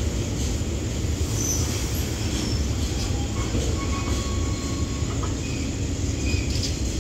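Freight train wagons, container flats and then cement tank wagons, rolling past close by with a steady deep rumble. A few brief high-pitched wheel squeals cut through it.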